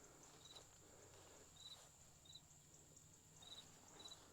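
Near silence: faint outdoor ambience with insects chirping, short high chirps about once a second over a steady thin high tone.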